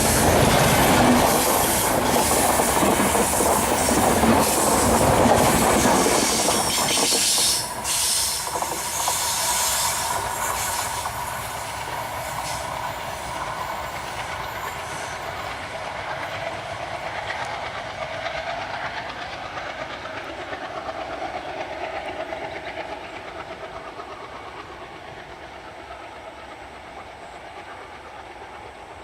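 Passing express train, its LHB passenger coaches' wheels clattering rhythmically over the rail joints. The clatter drops sharply about seven or eight seconds in, then fades away gradually as the train moves off.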